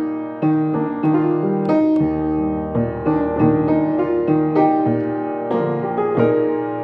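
Solo piano playing a gentle melody over bass notes in the left hand, with a new note struck about every half second.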